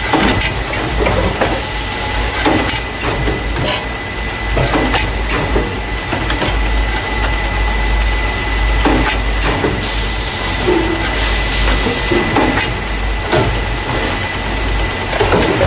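Carton case packer running, the factory machine that transfers paper juice and milk cartons into plastic crates: a steady low hum and a thin constant high tone under irregular clacks and knocks of its moving parts, with a brief hiss about ten seconds in.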